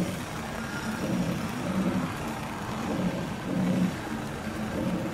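Rhaetian Railway metre-gauge passenger train rolling past, with a steady running rumble and wheels knocking over rail joints in a regular beat about every two seconds.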